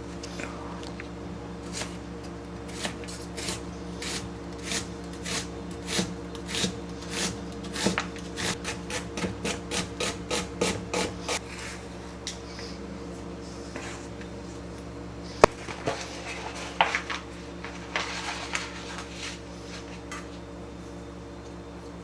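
Rhythmic rasping scrapes of a kitchen tool working food, about two strokes a second, quickening around eight to eleven seconds in, then slower and sparser, with one sharp click about fifteen seconds in.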